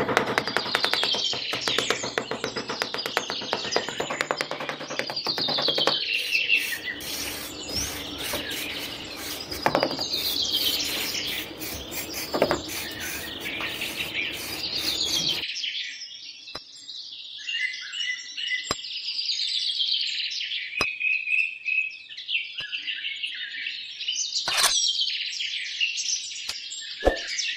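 Songbird chirping: a short, falling phrase of chirps repeated every few seconds. For about the first half, a small trowel scrapes and spreads sand underneath it, a rustling, scratchy noise that stops abruptly about halfway through.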